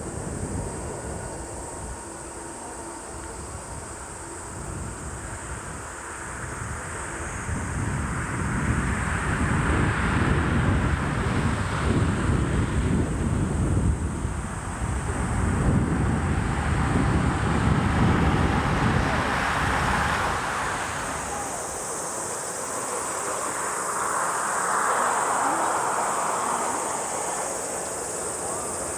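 A jet airliner passing near the runway. Its engine noise swells about seven seconds in, stays loudest through the middle, then eases off. Gusts of wind buffet the microphone.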